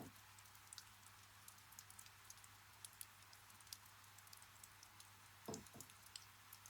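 Quiet, irregular ticking of raindrops dripping, over a low steady hum, with one soft knock about five and a half seconds in.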